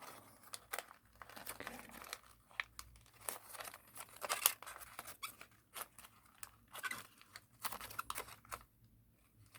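Sheet of origami paper being handled and creased by hand: quiet, irregular crinkles and rustles as the folds are lined up and pressed.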